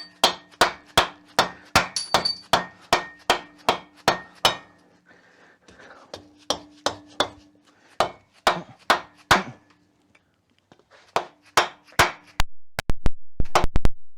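Rapid blows of a dead blow hammer on the cylinder head of a seized air-cooled VW Beetle engine, about three strikes a second, in several runs with short pauses between them. The head is rusted fast to the cylinders.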